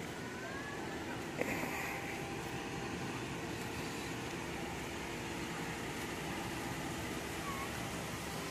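Steady outdoor background noise with a faint low hum, a single sharp knock about a second and a half in, and a few short chirps.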